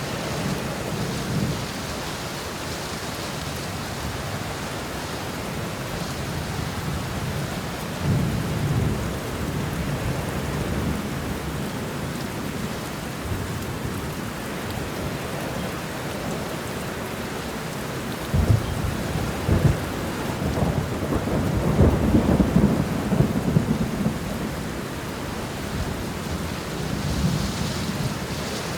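Steady heavy rain with rolling thunder: a low rumble swells about eight seconds in, and from about eighteen seconds a closer thunderclap gives several sharp cracks followed by rumbling that dies away over a few seconds.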